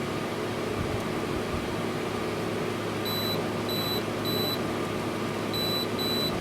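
Air conditioner running with a steady hum, powered through a line conditioner from a portable power station's pure sine wave inverter. Two runs of three short high electronic beeps come about halfway through and again near the end.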